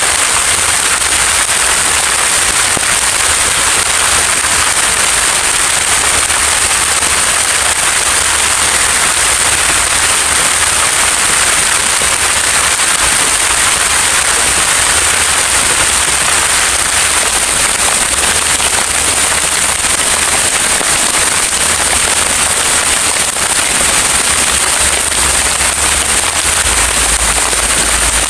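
Heavy rain falling. It makes a loud, steady, dense hiss of many close drop impacts.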